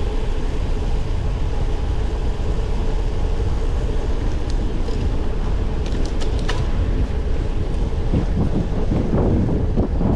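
Wind buffeting the microphone of a camera riding on a moving bicycle, with a steady hum under it. A few short clicks come about six seconds in, and the wind turns gustier near the end.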